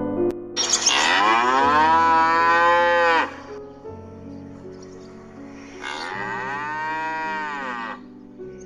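A cow mooing twice, two long calls that rise and then fall in pitch, the first louder than the second, over soft piano music.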